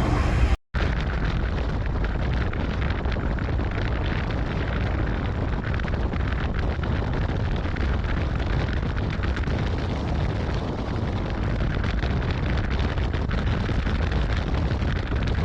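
Steady rumbling noise with no distinct events, heaviest in the low end, starting right after a brief cut to silence near the start.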